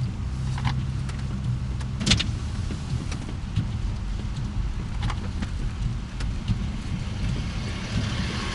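A car's engine and road rumble heard from inside the cabin, with a few sharp clicks and knocks scattered through.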